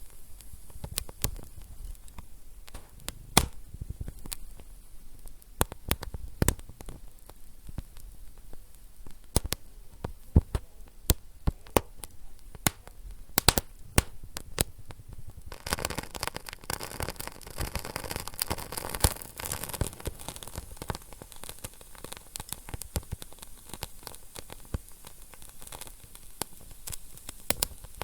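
Wood fire in a fireplace crackling, with irregular sharp pops and snaps over a low hiss. About halfway through, the hiss thickens into a denser sizzle for a few seconds before settling back.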